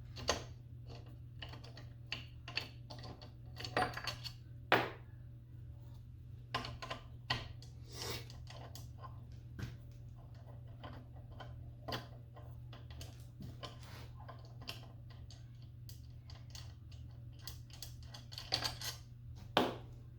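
Irregular clicks, clinks and light knocks of hand tools and metal parts as a cast-aluminium gearbox is worked apart, over a steady low hum.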